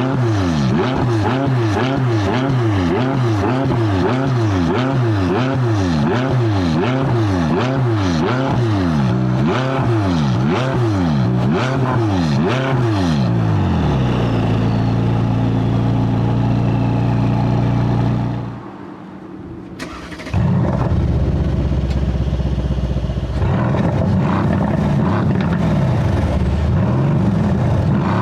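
Car engine with a loud aftermarket exhaust, revved up and down over and over at about one rise a second, then held at steady revs. The sound drops briefly about two-thirds of the way in before the steady note returns, with a few more rises and falls near the end.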